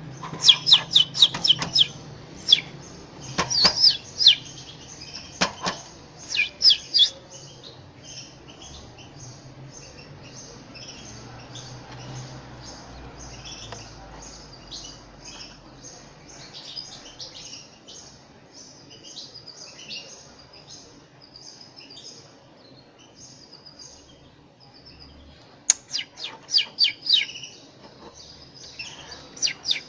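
Canary chicks cheeping: loud bursts of rapid, high, repeated chirps, the begging calls of nestlings being hand-fed, with softer twittering in between.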